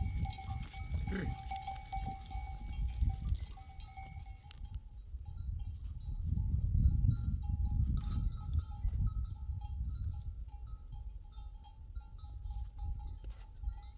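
Livestock bells on a flock of sheep and goats ringing steadily, then jingling on and off as the animals move, with a short bleat about a second in. A low rumbling noise runs under it, loudest around the middle.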